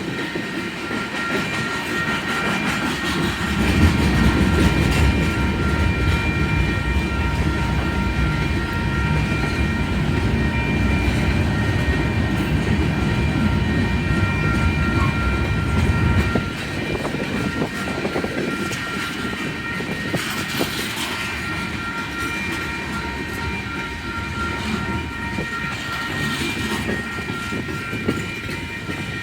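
Freight cars of a slow-moving Union Pacific manifest train rolling past, wheels clacking over the rails with a steady low rumble that is heavier for the first half and drops off suddenly about two-thirds of the way through. Steady high ringing tones from the crossing signal run underneath.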